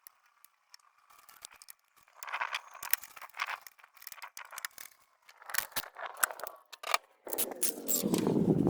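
Hand tools and metal car parts being handled: scattered clinks, taps and scrapes, turning into a denser, continuous mechanical rattling about seven seconds in.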